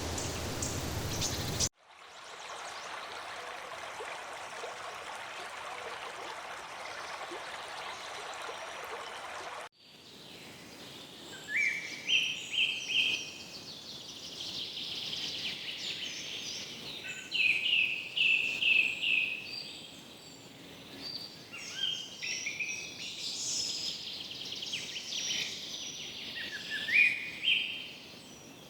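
Rainforest ambience in spliced stretches: a short rushing noise, then several seconds of steady hiss, then birds calling. The birds give repeated series of short, rising chirps, the loudest of them near the middle and near the end.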